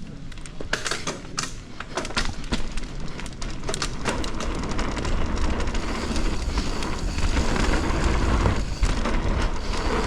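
Mountain bike setting off down a dirt trail: a run of sharp clicks and rattles in the first couple of seconds, then tyre rumble and wind on the microphone that grow louder as it gathers speed.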